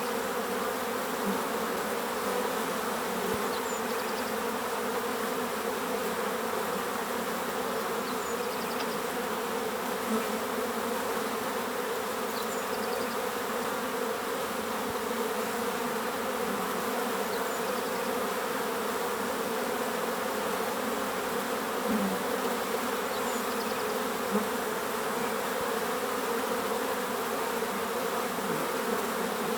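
Bees buzzing steadily, many together, as a dense, unbroken hum.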